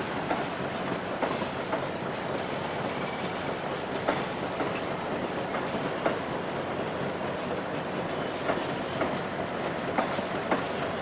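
Metre-gauge passenger train rolling past: a steady rumble with wheels clacking over rail joints every second or two.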